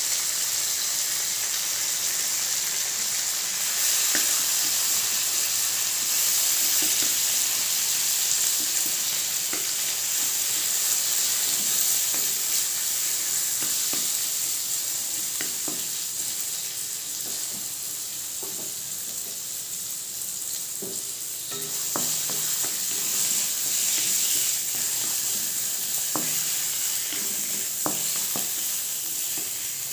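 Sun-dried mango pieces, crushed ginger and spices sizzling in hot mustard oil in a metal kadai with a steady hiss. Every few seconds there is a short scrape or tap as a wooden spatula turns them against the pan.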